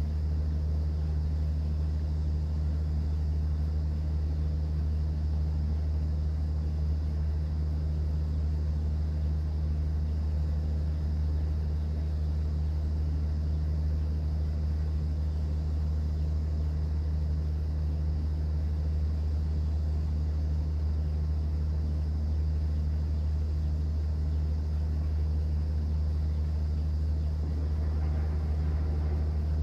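Steady low drone of a cruise boat's engine, with a faint even wash of water over it.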